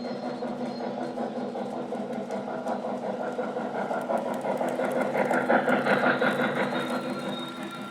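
O-scale Lionel model train running on track, its electronic sound system playing recorded freight-train and engine sounds through a small speaker, with fine rapid clicks. The sound grows louder in the middle and eases off near the end.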